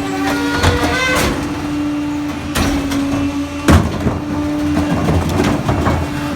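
Pak-Mor rear-loader garbage truck compacting trash: a steady hydraulic hum with repeated clanks and cracks, the loudest about three and a half seconds in, and brief squeals of metal near the start.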